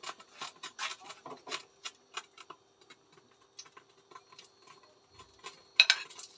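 Irregular light clicks and taps of cooking utensils being handled at the stove, with a louder clatter near the end.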